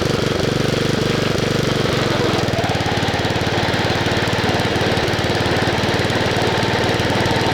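Wisconsin S8D single-cylinder air-cooled engine of a Bolens 850 garden tractor running steadily; about two seconds in its note changes and turns rougher and more ragged.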